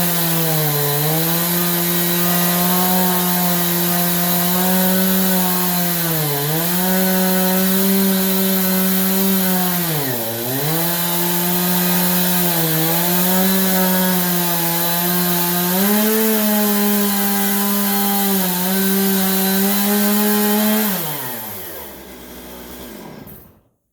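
Stihl chainsaw on an Alaskan mill running at full throttle as it rips along a wet pine log, its engine pitch dipping briefly several times under the load of the cut. Near the end the engine speed falls away and the saw stops.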